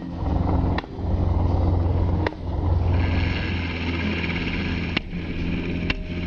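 Helicopter engine and rotors running steadily, with a higher hiss joining about three seconds in. The sound is broken by several abrupt cuts.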